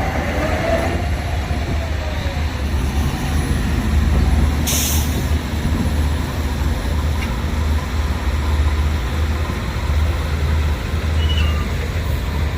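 Heavy diesel engine running steadily with a low rumble. About five seconds in comes a short, sharp hiss of released air, like a truck's air brake.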